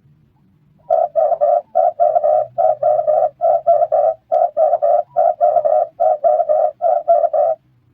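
Red turtle dove cooing: a steady run of about nine quick three-note coo phrases, starting about a second in and stopping shortly before the end.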